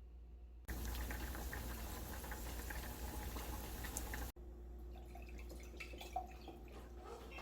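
Water running from a kitchen tap: a steady hiss that starts about a second in and cuts off suddenly just past the middle. Quieter kitchen sounds with a few small clicks follow.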